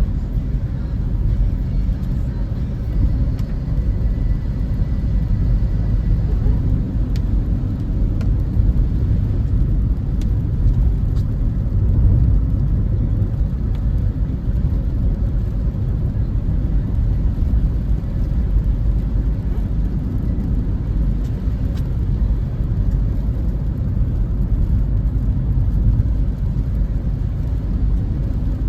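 Steady low rumble of a car driving along a road, engine and tyre noise heard from inside the cabin, with a few faint clicks.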